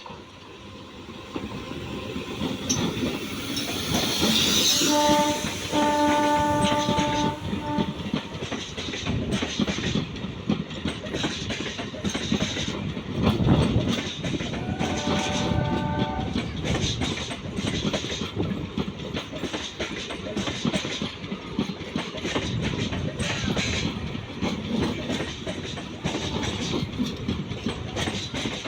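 A train passing close by, wheels clattering over the rail joints. Its horn sounds about five seconds in, a short toot and then a longer blast, and again briefly around fifteen seconds.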